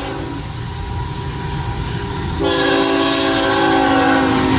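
Diesel freight locomotive's air horn sounding as the train nears the grade crossing: a short blast right at the start, then a longer, louder blast from a little past halfway, over the low rumble of the approaching train.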